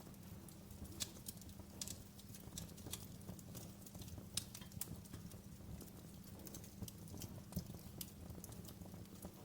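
Wood fire in a fireplace crackling: sharp, irregular pops and snaps over a low, steady rumble, with one louder snap about four seconds in.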